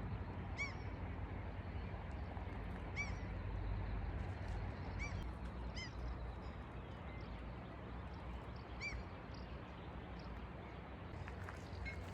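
A bird giving five short, single calls spread out over several seconds, each a brief note that rises and falls, over a steady low rushing noise.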